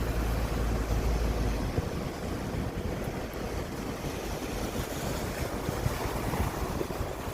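Ocean surf washing on the beach, with wind buffeting the microphone, heaviest in the first second and a half or so.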